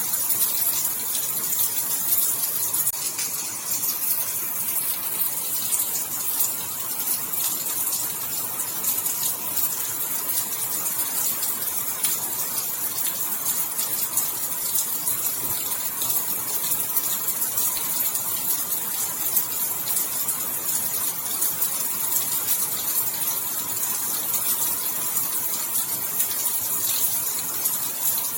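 Steady rainfall: an even, dense hiss of falling drops, with a fine crackle of individual drops hitting.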